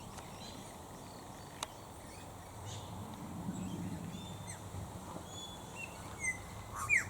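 Wild birds calling at a distance: scattered short chirps and whistles, with one louder sweeping call near the end. A single sharp click about one and a half seconds in, and a faint low rumble in the middle.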